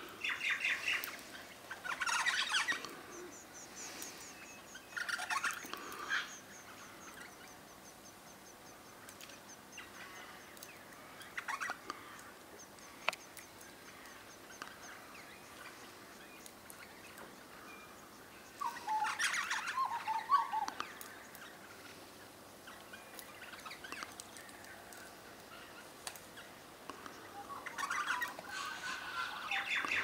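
Wild birds calling in short bursts of chattering notes every few seconds, with a thin, fast, high-pitched ticking trill running for about ten seconds in the first half.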